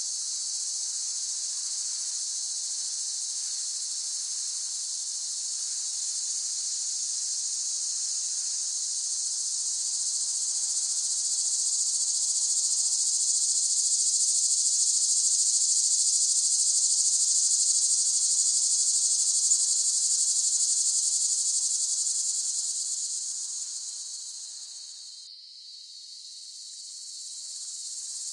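Cicadas singing in a continuous, high-pitched, buzzing drone that swells louder midway, fades to a low point about 25 seconds in, then builds again.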